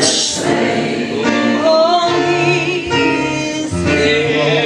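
Voices singing a slow gospel hymn in held, wavering notes: the song of invitation sung during an altar call.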